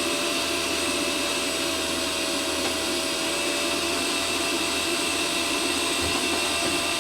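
Eberspacher D1L diesel air heater's fan motor running steadily, a whirring hum with a constant whine, blowing air only: the heater has started up but is not burning fuel.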